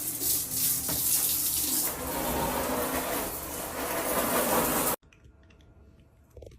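Running water, like a tap into a sink: a steady hiss that cuts off abruptly about five seconds in.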